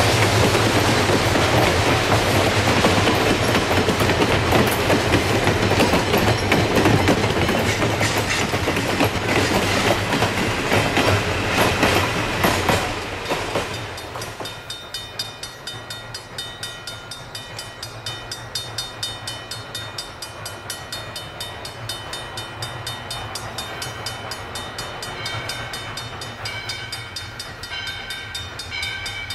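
Steam train's passenger coaches rolling past close by, their wheels clattering over the rail joints. About 13 seconds in this gives way to a grade-crossing bell ringing in a steady, even rhythm, the warning that a train is approaching.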